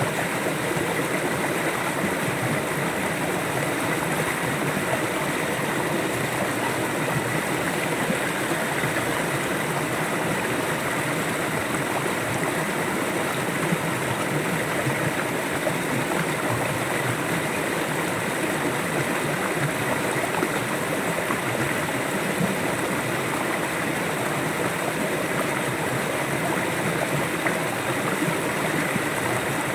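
River water flowing steadily, a continuous rushing and gurgling of the current.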